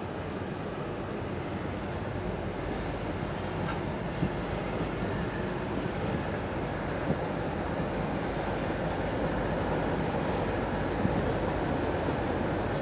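Freight train led by five EMD diesel locomotives (three SD70M-2s, an SD75I and a GP38-2) approaching. Their engines and wheels make a steady noise that slowly grows louder.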